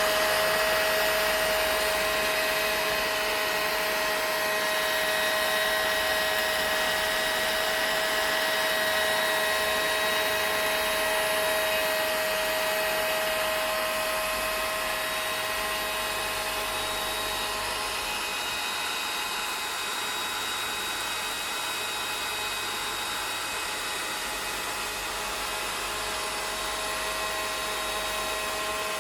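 Vacuum cleaner running continuously: a steady rush of air with a constant whine from the motor.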